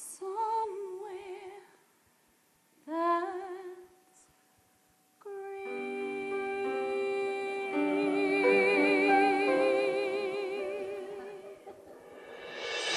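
Musical-theatre ballad: a woman singing long notes with vibrato over keyboard accompaniment. Two short phrases come first, then a fuller sustained passage about five seconds in that fades near the end.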